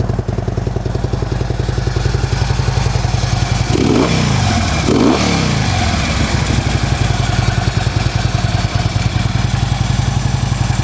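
A 2009 Harley-Davidson CVO Ultra Classic's Screamin' Eagle Twin Cam 110 V-twin idles through aftermarket mufflers and is blipped twice, about four and five seconds in. The exhaust note is mellow, not too harsh.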